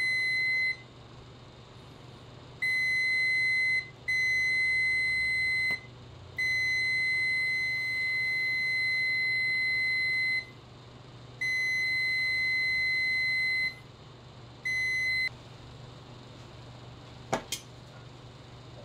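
Multimeter continuity tester beeping a steady high tone in six irregular stretches, the longest about four seconds. Each beep signals a closed circuit as the probes make contact. Near the end come a couple of sharp clicks.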